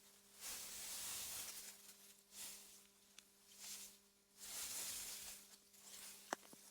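AI-generated ambience of wind through meadow grass: soft gusts of rustling hiss that swell and fade several times, over a faint steady low hum. A single sharp click sounds near the end.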